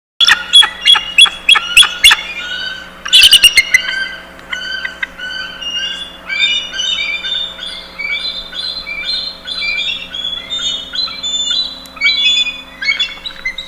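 Bald eagle calling: a series of high, sharp piping calls, loudest in the first two seconds and again about three seconds in, then a long run of quicker high chirps.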